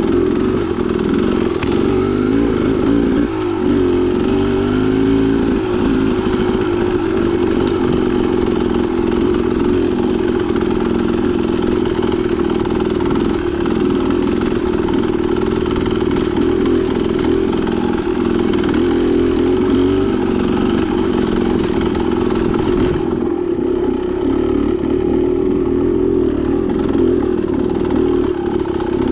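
Dirt bike engine running on a rough single-track trail, its pitch rising and falling with the throttle, over a steady rattle. About three-quarters of the way through, the hiss and clatter above the engine drop away.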